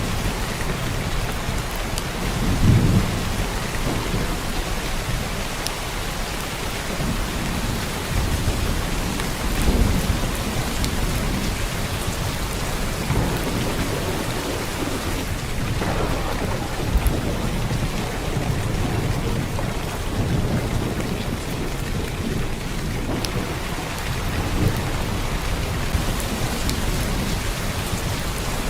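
Heavy downpour of rain: a dense, steady hiss of rainfall with scattered drop ticks, and low rumbling swells now and then, at about three seconds in, ten seconds in and sixteen seconds in.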